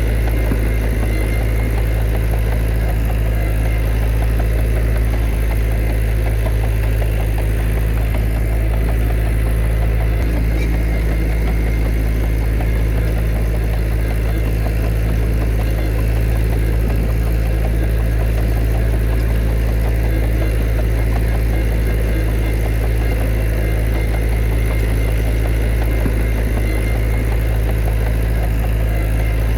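Heavy diesel engine of earthmoving machinery running steadily at a constant speed, a deep continuous hum with no revving or pauses.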